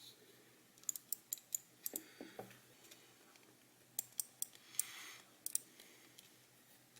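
Small plastic clicks and light taps in scattered little groups, from handling the parts of a vertical computer mouse during reassembly, with a few duller knocks about two seconds in. A short soft breath about five seconds in.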